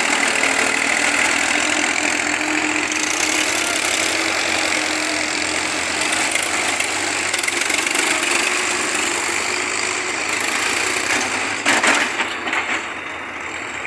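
Heavy machinery engine running steadily, with a short burst of loud knocks about twelve seconds in.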